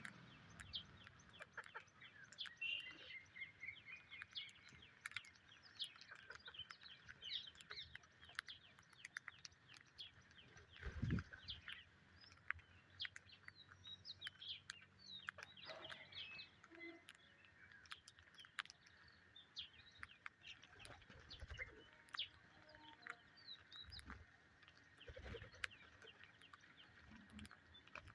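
Faint, busy chirping of birds, many short chirps and calls overlapping, with a single low thump about eleven seconds in.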